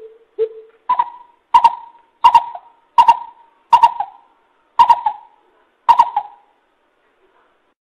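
A coucal (bubut) giving its hooting call: a series of about nine separate deep hoots, the first three lower in pitch, then the rest a step higher and spaced a little wider apart toward the end.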